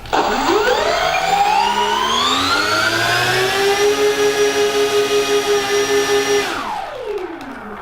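Twin electric motors and propellers of an RC P-38 Lightning warbird run up on a thrust check: a whine that rises in pitch over about three seconds, holds at full throttle with a steady pulsing beat, then winds down near the end.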